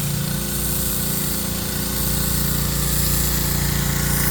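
Pressure washer running steadily: its engine's even drone under the constant hiss of the high-pressure water jet on the sidewalk and curb concrete.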